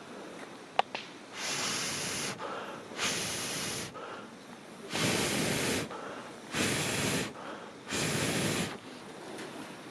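Air blown into a campfire in five short puffs about a second and a half apart, fanning the flames, with one sharp crackle of burning wood just before the first puff.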